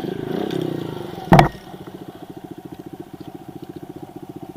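Kawasaki KLX110 pit bike's small single-cylinder four-stroke engine running with a wavering note, then idling steadily with an even putter. A single loud knock comes about a second and a half in.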